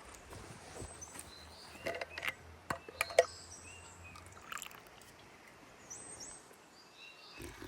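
Quiet outdoor ambience with a few sharp clicks and knocks from handling something, clustered around two to three seconds in, and brief bird chirps a little after six seconds.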